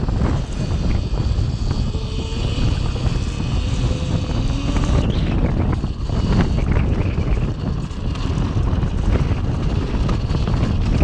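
Heavy wind buffeting on the microphone while riding a Cake Kalk OR electric dirt bike, with a faint whine from the electric drive rising and falling a little under it.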